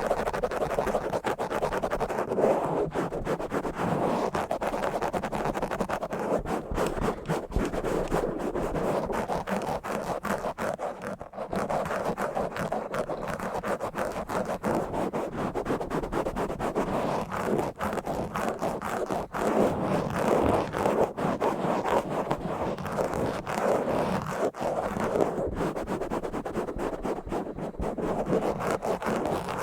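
Fast, rough scratching and rubbing on a bare microphone, a dense continuous rasp of quick strokes with no pauses.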